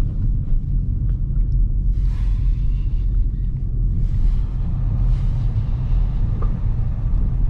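Steady low rumble of a Dodge Scat Pack's 6.4-litre HEMI V8 and its tyres rolling on a snowy road while driving, with a few brief swells of hiss.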